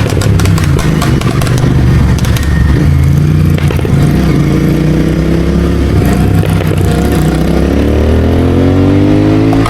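Royal Enfield Continental GT650's 648 cc parallel-twin, Code6-tuned with a Red Rooster exhaust, running under way. It gives a run of sharp exhaust pops in the first couple of seconds, then climbs steadily in pitch as it accelerates through the last few seconds.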